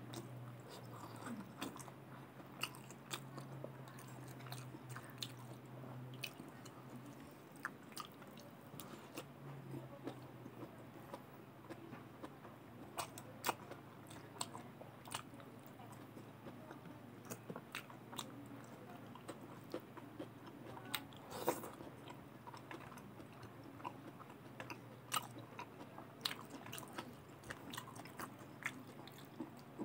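Close-up mouth sounds of a person chewing rice with fried green beans and potato, with frequent short wet clicks and smacks of the lips. A low steady hum runs underneath.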